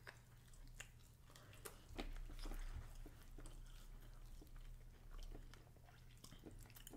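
Faint chewing and biting of fries and turkey leg meat, with scattered small clicks.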